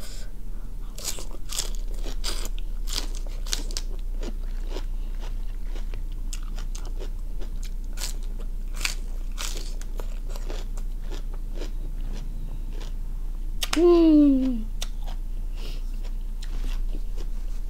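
Close-up chewing of a crisp lettuce-leaf wrap filled with salad: a string of wet crunches, dense at first and thinning out. About fourteen seconds in, a short falling hum of the voice.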